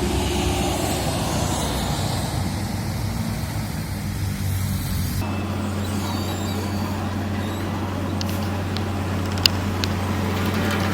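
Heavy diesel engines of road-paving machinery running steadily; about five seconds in the sound changes abruptly to a steadier low engine hum. A single sharp click comes near the end.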